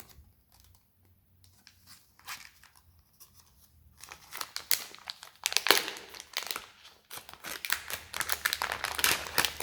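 Plastic packaging of a pack of Magbite SnatchBite soft shrimp lures being crinkled and torn open by hand. A few scattered crackles come first, then dense crinkling and tearing from about halfway through.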